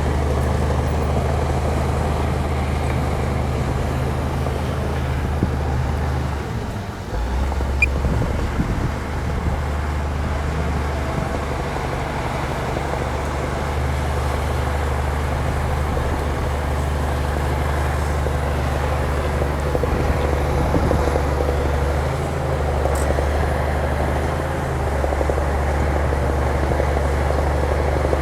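Heavy diesel engine of a bulldozer running steadily under work, with a brief dip about six to seven seconds in.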